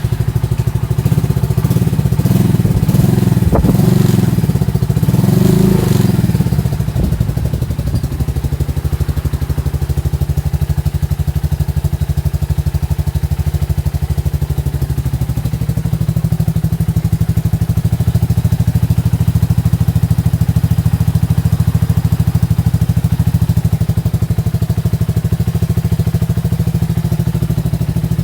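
Engine running just after starting, a few blips of the throttle in the first seven seconds, then settling into a steady idle. It is an engine that has been made to start again.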